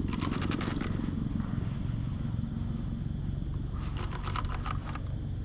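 Fishing reel ticking in two short runs of rapid clicks, about a second each, at the start and about four seconds in, as a heavy hooked jewfish is played in. A steady low rumble lies underneath.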